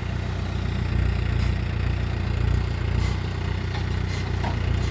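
Diesel tractor engine of a Mahindra 6025 running steadily with a low, even drone.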